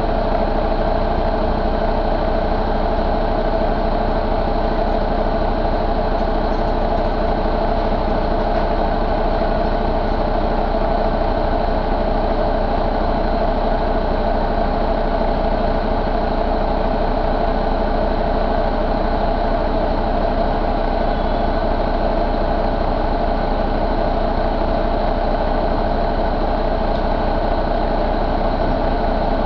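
2013 International MaxxForce 13 inline-six diesel engine idling steadily, its level and pitch unchanging throughout.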